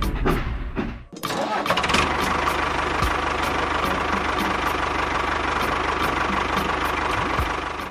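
An engine or motor running steadily, starting after an abrupt cut about a second in, with a steady high hum and regular light ticks.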